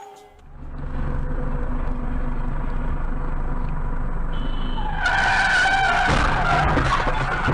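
A car driving with a steady low rumble, then about five seconds in a sudden loud tyre screech as a car skids.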